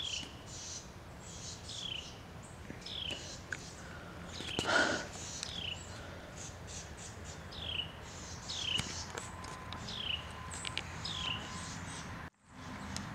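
A small bird calling over and over in woodland, short high notes that slide downward, about one a second. About five seconds in there is one brief, louder and lower sound.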